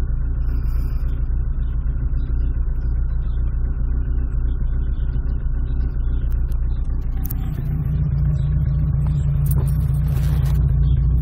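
Rover 200 BRM's 1.8-litre K-series VVC four-cylinder engine running steadily, with the slight miss that the owner is trying to trace. It grows louder and heavier in the last few seconds.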